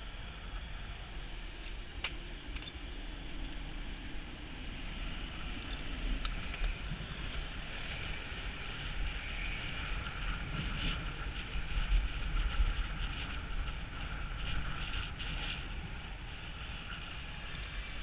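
Motorcycle on the move heard through a helmet-mounted action camera: steady wind rush and road noise over a low rumble, with traffic sounds and a few faint clicks. The noise swells between roughly the middle and the last few seconds.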